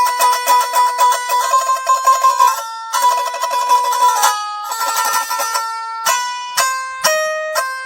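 Instrumental music from a plucked string instrument playing a melody with no bass: quick repeated notes for the first couple of seconds, then slower single plucked notes that ring out and fade.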